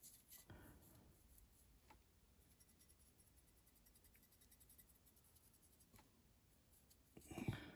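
Near silence: faint scratching and small clicks of close handling work, with a short louder rustle near the end.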